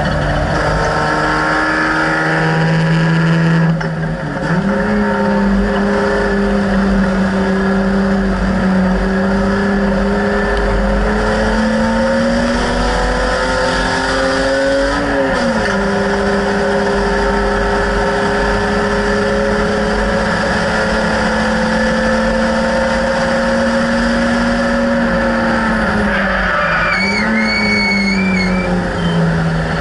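BMW E30 race car's engine heard from inside the cabin under hard driving, its note climbing through the revs and dropping sharply at a gear change about fifteen seconds in. The tyres squeal briefly near the end.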